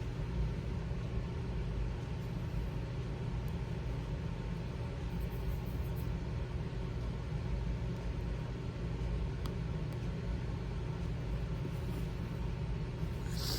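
A steady low hum with a few faint ticks, and a brief scratchy rustle near the end.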